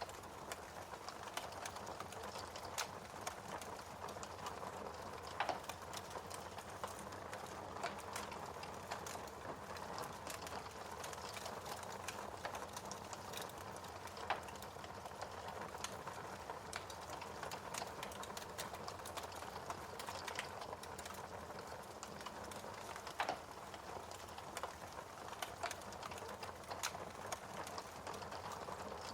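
Wood fire burning in a fireplace, with a steady hiss and constant small crackles and a few louder pops.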